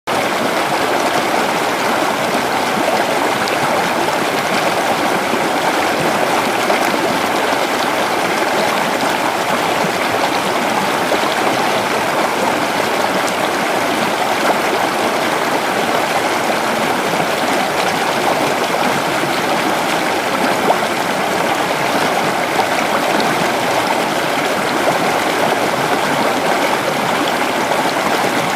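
Creek water flowing steadily: a continuous, even rush of running water.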